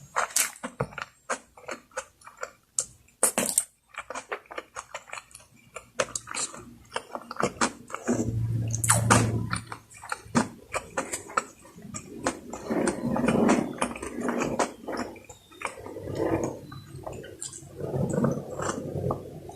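Close-miked eating: a person chewing with wet mouth smacks. For the first several seconds the sounds are many sharp, separate clicks; from about eight seconds in the chewing becomes fuller and louder, in clusters.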